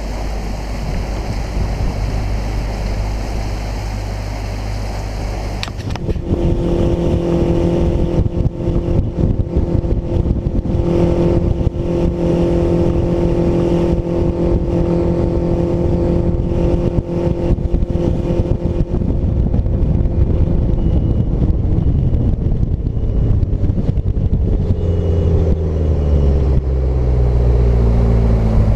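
Mercury outboard engine running a bass boat under way, changing from a low rumble to a steady engine note about six seconds in, with its pitch shifting in the later part. Near the end a faint high warning beep sounds about once a second: the engine's alarm, which the owner suspects means low water pressure from running the jack plate too high.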